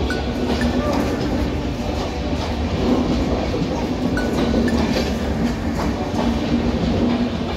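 Passenger train running along the track past the platform: a steady rumble of wheels on rails, with a brief high squeak at the start and again about four seconds in.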